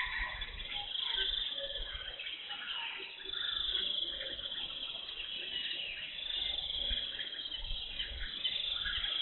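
Jungle ambience: high, trilling bird or insect calls that recur every second or so, over water sounds from an Asian elephant bathing, with intermittent low rumbles.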